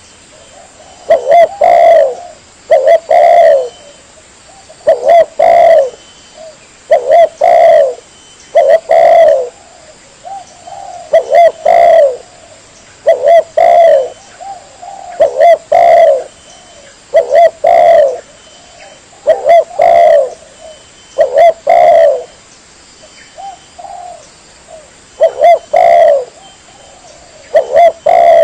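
Spotted dove cooing in a lure-call recording: a phrase of two or three low coos repeated about every two seconds, steadily throughout.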